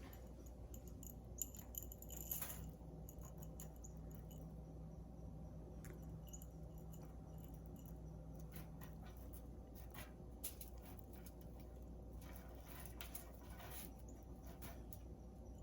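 Beeswax pellets being sprinkled onto fabric on a parchment-lined tray: faint, scattered light ticks and patters over a steady low hum.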